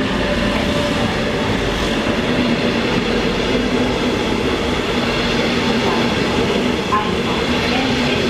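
A train moving along the platform: steady wheel-on-rail rolling noise with a steady hum under it.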